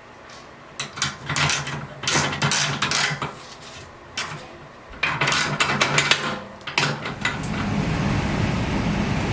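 Metal clattering and knocking as the furnace blower parts are handled, then, about seven seconds in, the furnace blower motor starts and runs steadily, its seized bearings freed with oil.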